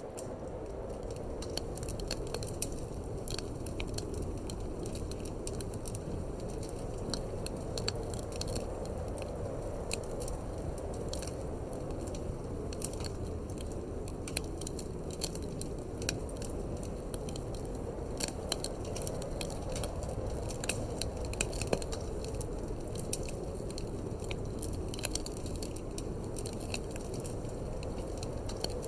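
Wood fire in a fireplace crackling, with irregular sharp pops and snaps, over a steady low rush of wind.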